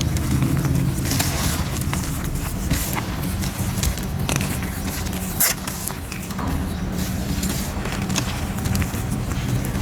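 Pressed grey gym chalk shapes being crushed, crunching and crumbling with dense, irregular cracks over a low rumble, one sharper crack about five and a half seconds in.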